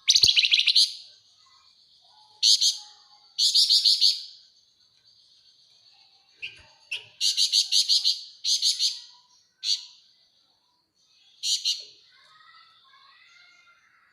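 Javan fulvetta singing in rapid, high-pitched chattering rattles: about eight loud bursts, each a second or less, with short pauses between them.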